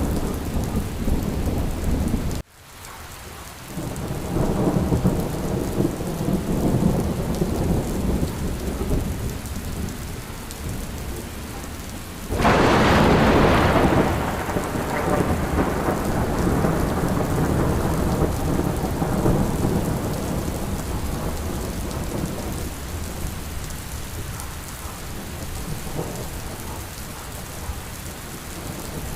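Steady rain with rolling thunder rumbling low. About twelve seconds in a loud thunderclap breaks out and slowly rumbles away. The sound drops out briefly about two seconds in.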